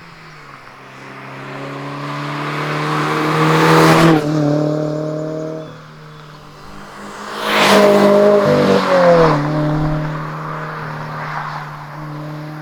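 A 2022 GR86/BRZ's 2.4-litre flat-four exhaust note through a Borla S-Type cat-back exhaust, idling and then revved twice. The first rev climbs steadily for about three seconds and drops off sharply about four seconds in. The second, quicker rev is held for about two seconds before the engine settles back to idle.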